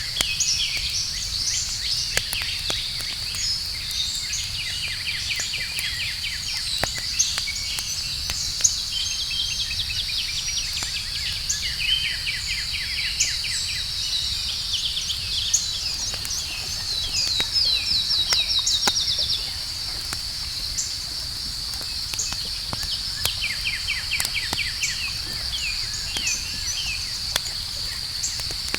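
Outdoor campfire crackling with scattered sharp pops, under a steady high trill of night insects and repeated runs of quick chirps. A louder run of chirps comes a little past halfway.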